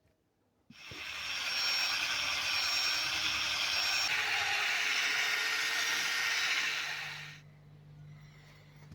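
Compressed-air tool running with a steady hiss, starting suddenly about a second in and fading out after about six and a half seconds. A low hum comes in near the end.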